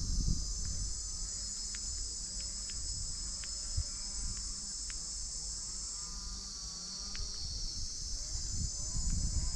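Steady, high-pitched chorus of insects, typical of crickets or cicadas, trilling without a break.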